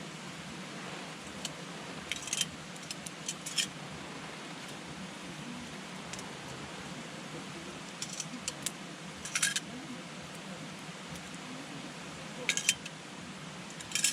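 Wood campfire crackling: clusters of sharp snaps and pops, three times, over a steady hiss.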